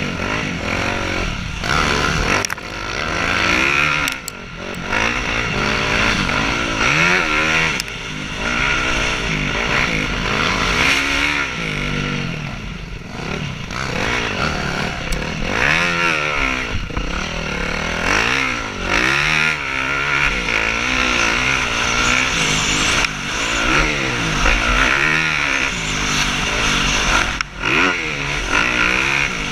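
Several motocross bikes racing. Their engines rev up and drop back over and over, overlapping as the riders accelerate and back off around the track.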